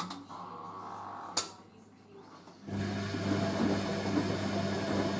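Hoover A3060 front-loading washing machine working through its rinse: a sharp click about a second and a half in, a short lull, then the machine starts up again with a steady hum over a rushing noise for about three seconds before stopping.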